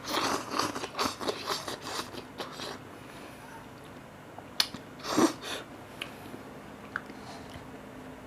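A person eating cup noodles close to the microphone: a quick run of chewing and biting noises in the first couple of seconds, then a sharp click and one more short burst of eating noise about five seconds in.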